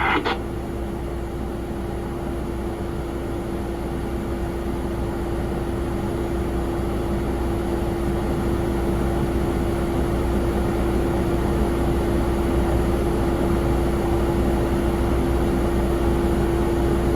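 Jet aircraft noise at an airport: a steady hum over a low rumble that slowly grows louder.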